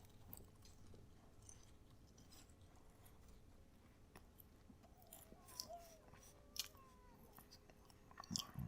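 Faint chewing of a bite of microwaved chicken pot pie crust, with soft scattered clicks from the mouth.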